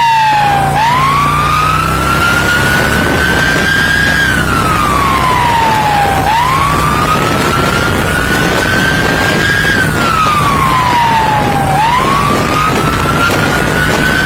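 Police siren on a slow wail. Its single tone climbs over about three and a half seconds and drops over about two, repeating about every five and a half seconds, over steady engine and road noise.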